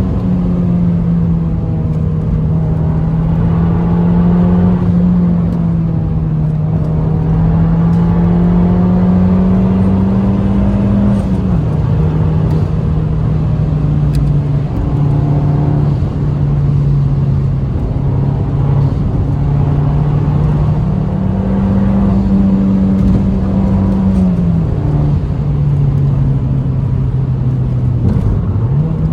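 Fiat Abarth 595's turbocharged 1.4-litre four-cylinder with stock exhaust, pulling under load while driving. Its note climbs slowly, then drops abruptly twice, about a third and about four-fifths of the way through, as it shifts up, with another dip and recovery near the end.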